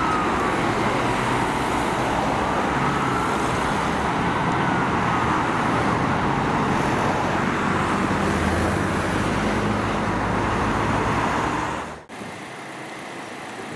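Steady road traffic noise with an emergency-vehicle siren wailing faintly in slow rising and falling sweeps over the first few seconds. About twelve seconds in, the sound cuts suddenly to a quieter stretch of traffic.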